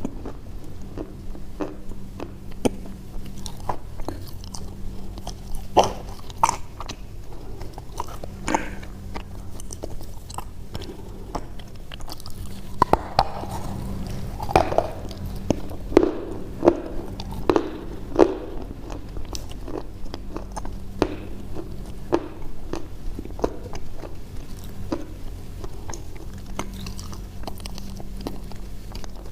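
Close-up biting and chewing of crisp, crunchy food: a run of irregular sharp crunches, loudest and thickest around the middle, over a faint steady low hum.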